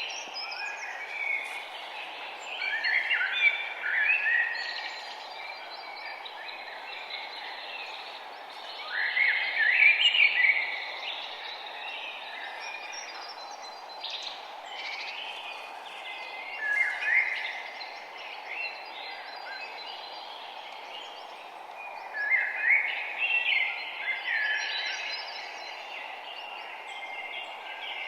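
Songbirds singing in short phrases of a second or two, one every six or seven seconds, over a steady background rush.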